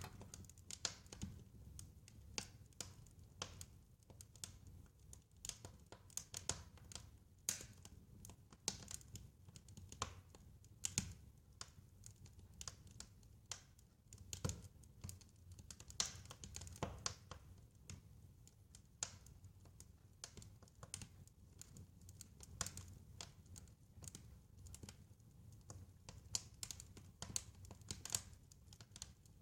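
Fireplace fire crackling: irregular small snaps and pops, a few louder than the rest, over a faint low rumble of burning.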